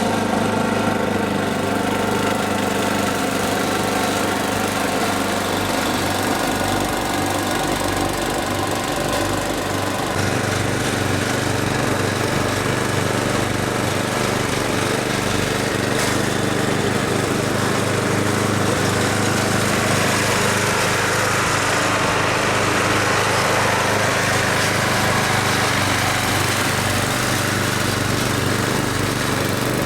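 Snowblower's small gasoline engine running steadily under load, its tone shifting slightly about ten seconds in.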